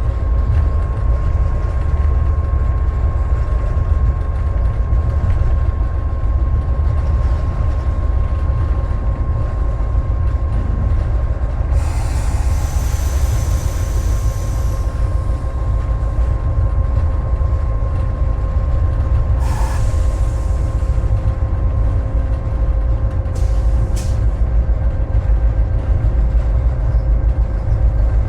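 Steady, heavy low rumble of a GP38-2 diesel locomotive's EMD 16-cylinder two-stroke engine, heard inside the cab, with a steady whine in it. About twelve seconds in comes a hiss lasting about three seconds, and there are two short sharp sounds later on.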